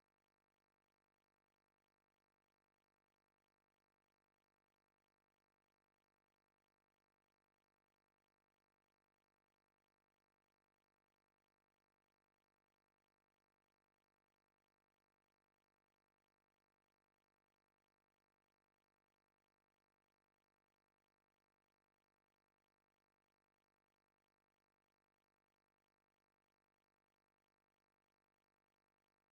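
Near silence: the audio track is essentially empty, with only a very faint steady hiss.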